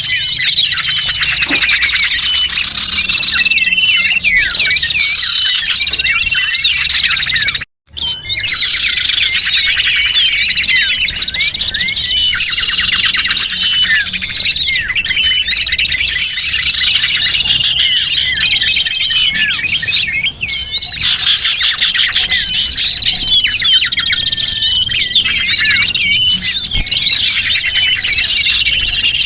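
A dense chorus of small birds chirping and twittering, with many rapid high calls and trills overlapping: a recorded lure call used to attract small birds. The sound cuts out for a moment about eight seconds in.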